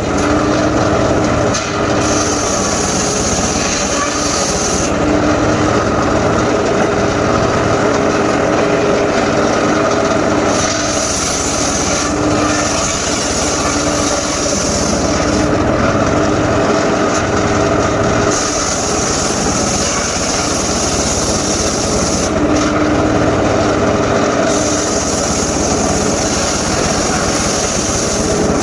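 Engine-driven mobile circular sawmill running steadily while its large circular blade cuts through wood, a high whine of the cut coming and going several times in stretches of a few seconds.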